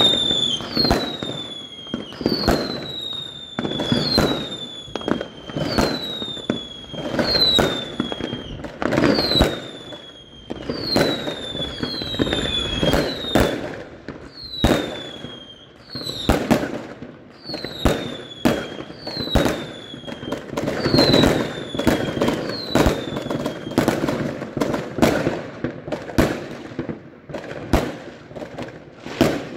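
Fireworks going off in quick succession: sharp bangs and crackles, with a regular train of falling whistles about once a second from whistling shots that stops about two-thirds of the way through, leaving only the bangs.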